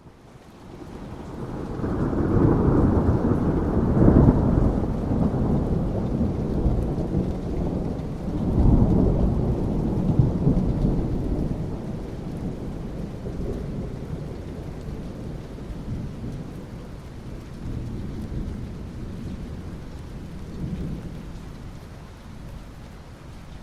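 Thunder rumbling over steady rain. The rumble builds over the first couple of seconds, rolls to a peak, comes back in a second roll, then slowly dies away, leaving the rain.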